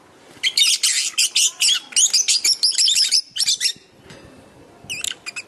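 Lovebirds chattering in rapid, high-pitched chirps and squawks for about three seconds, then a shorter burst of calls near the end.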